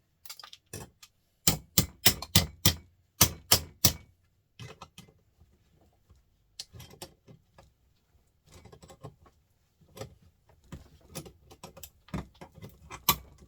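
Sharp metal taps and clinks of hand tools working a small printer motor apart in a vise to free its aluminium end cap. A quick run of loud strikes comes a second or two in, followed by scattered lighter clicks and scrapes.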